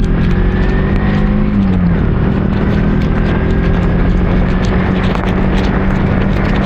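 Motorcycle engine running at a steady pace, its pitch dipping briefly less than two seconds in, under a constant rush of wind and road noise.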